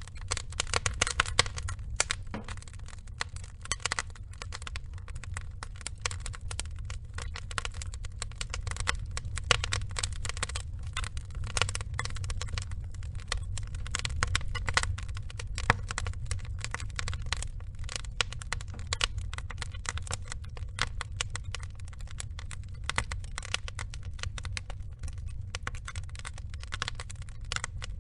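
Burning logs crackling, with many irregular sharp pops several times a second over a steady low rumble.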